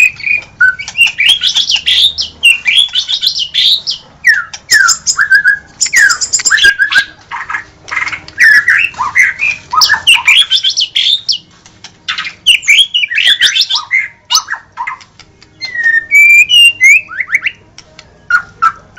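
White-rumped shama (murai batu) singing a fast, varied song of whistled notes sliding up and down, mixed with harsh notes and sharp clicks, almost without a break.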